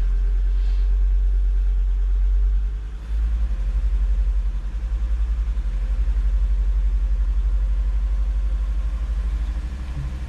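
Volvo 2.4 non-turbo inline five-cylinder petrol engine idling with a regular low pulse, a brief dip about three seconds in. It is running with an intermittent misfire on cylinder 1.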